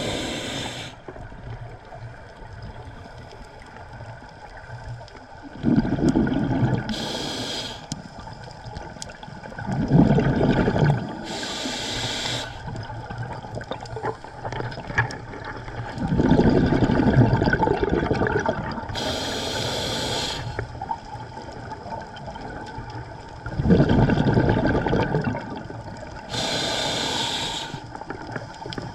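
Scuba diver breathing through a regulator underwater: a short hiss on each inhalation and a rumble of exhaled bubbles, repeating about every six to seven seconds.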